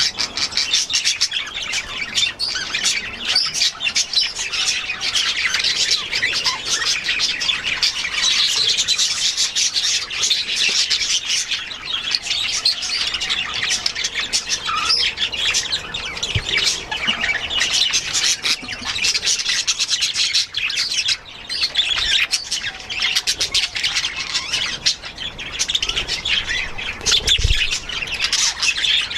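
A flock of budgies and other aviary birds chattering, chirping and squawking continuously, many calls overlapping at once.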